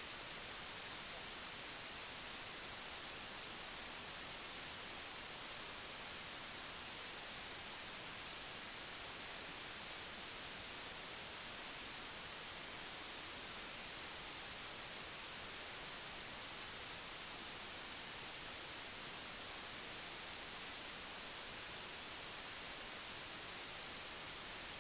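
Steady, even hiss with no other sound, like recording static.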